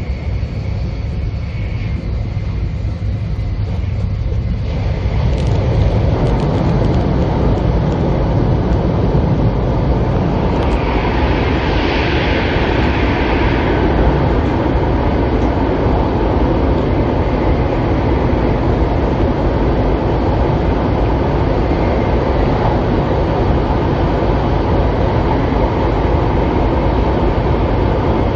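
Running noise of a 700 series Shinkansen train at speed, heard inside the passenger cabin. About four to five seconds in it grows louder and fuller as the train enters a long tunnel, then stays a steady loud rumble, with a brief hiss over it about eleven seconds in.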